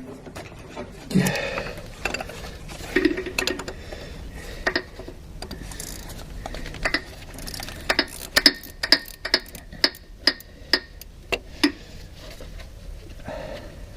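Hand tools clicking and clinking against metal while a starter motor is unbolted. In the second half there is a run of sharp clicks, about two to three a second.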